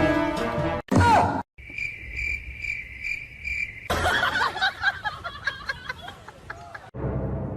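A short, loud sound falling in pitch, then steady high chirping like crickets, pulsing about three times a second for a couple of seconds. A busy stretch of clicks and short squeaky sounds follows.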